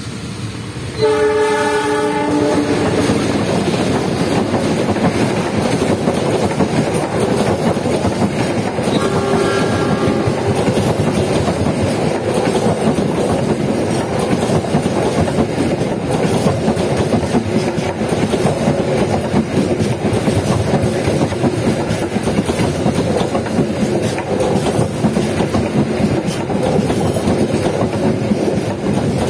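Diesel-hauled passenger train passing close by: the locomotive horn sounds about a second in and briefly again around nine seconds. Then a steady, loud rumble and clatter of the coaches' wheels and bogies rolling over the rails as the train runs past.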